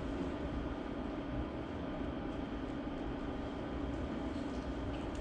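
Steady room noise: a low, even hum with no distinct events.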